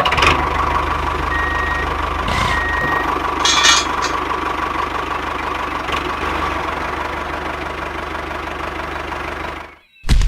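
Small engine of a DIY mini tractor running steadily with a rapid, even knocking beat. It stops abruptly near the end.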